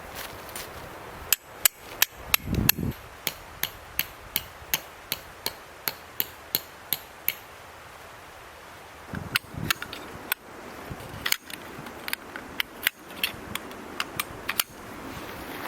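Repeated hammer strikes, sharp evenly spaced taps about three a second, in two runs with a short pause between.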